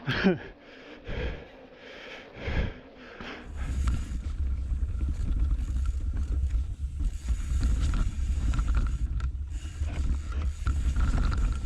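Riding noise of a mountain bike on a trail: wind rushing over the camera microphone and tyres rolling over the ground, setting in steady and loud about three and a half seconds in.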